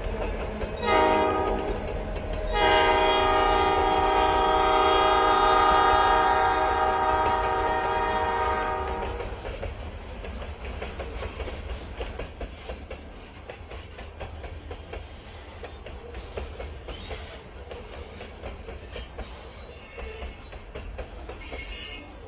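Diesel freight locomotive's multi-chime air horn sounding a short blast and then a long one of about six seconds. The train then rolls on with a low rumble and wheels clicking over the rail joints.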